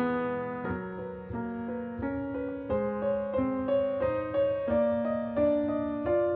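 Gentle background piano music, notes struck at an unhurried, even pace.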